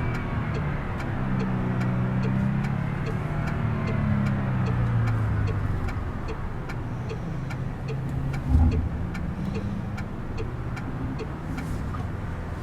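Car engine running while driving, its pitch rising and falling over the first few seconds, then steadier. A steady, even ticking runs alongside it, and there is a single thump about eight and a half seconds in.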